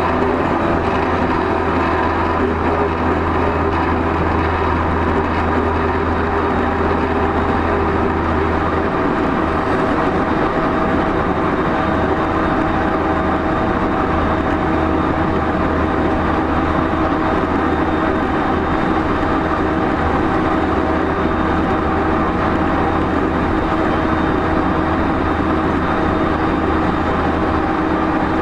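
JR East E231-0 series electric commuter train running at speed, heard from inside a motor car: loud, steady rolling and traction-motor noise with a constant hum.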